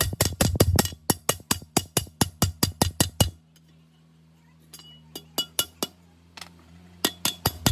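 Rapid hammer blows on metal, about five or six sharp ringing strikes a second, stopping for about a second past the midpoint and then starting again, over a low steady hum.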